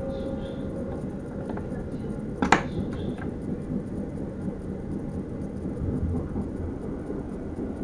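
Steady low rumble of an NS Sprinter train running, heard from inside the driver's cab, with one sharp knock about two and a half seconds in.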